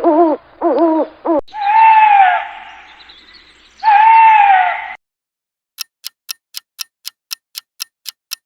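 An owl hooting: a quick run of short hoots, then two longer drawn-out hoots that rise and fall in pitch. Near the end this gives way to a clock ticking steadily, about three ticks a second.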